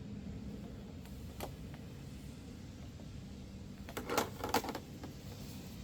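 Two short bursts of an aerosol spray can about four seconds in, coating spliced wire connections, over a steady low hum.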